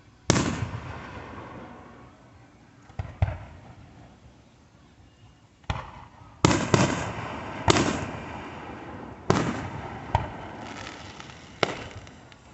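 Fireworks going off: about nine sharp bangs at irregular intervals, each with an echoing tail, coming faster in the second half.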